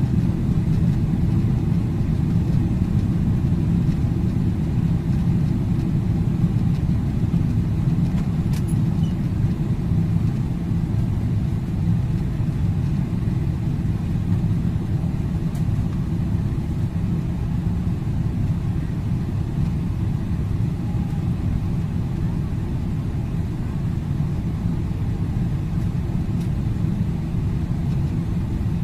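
Steady low rumble of airliner cabin noise, engines and airflow, easing slightly in level over the stretch.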